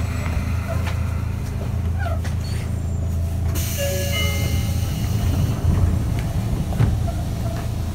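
Sotetsu 8000 series electric train running along the line, heard from inside: a steady low rumble of wheels on rails. About halfway through, a hiss comes in for about two seconds.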